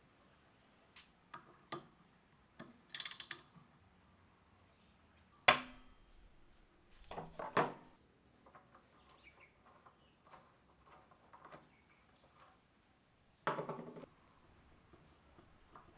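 Small metal engine parts and hand tools being handled on a bench: scattered clinks and knocks. The sharpest comes about five and a half seconds in, another clatter follows about two seconds later, and a longer one comes near the end.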